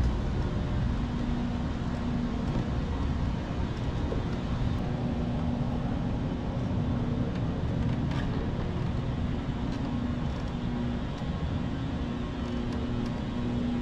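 Steady low rumble of hall background noise, with a faint hum that comes and goes.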